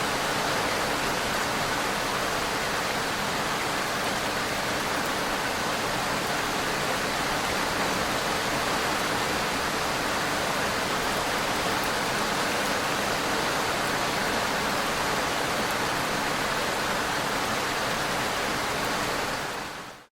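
Steady rain falling, an even dense hiss, that fades out quickly at the very end.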